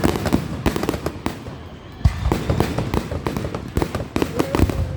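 Fireworks going off in rapid succession: a dense run of bangs and crackles that thins out briefly about a second and a half in, then picks up again with a loud bang at about two seconds.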